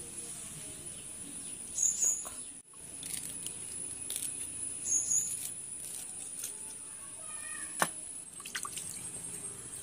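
A bird chirping now and then, with short high chirps and a falling run of calls, over a steady high-pitched whine. Small clicks and water sounds come from sardines being cleaned by hand in a pot of water, with a sharp knock about eight seconds in.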